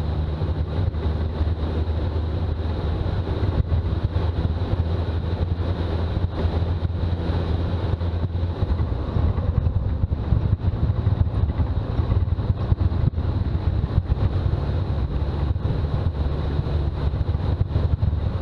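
Toyota BJ40's diesel engine running while driving, with road noise: a steady low drone whose pitch shifts a little around the middle.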